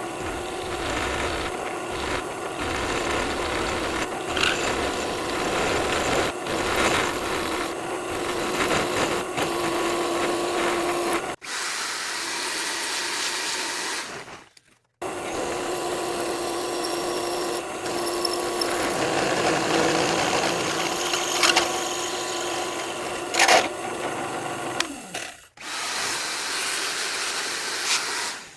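Electric drill running and boring wheel holes through steel bar, with short pauses three times between runs.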